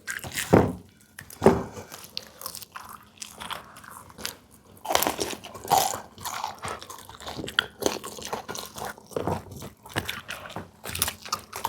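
Biting and chewing crunchy fried samosa pastry, with irregular crunches spread through the chewing.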